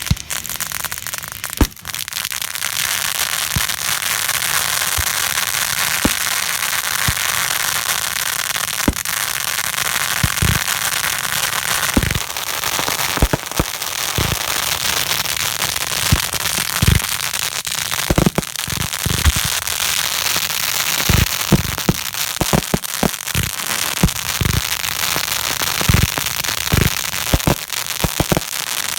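Fireworks going off: a steady hissing crackle with many sharp pops and bangs, which come thicker in the second half.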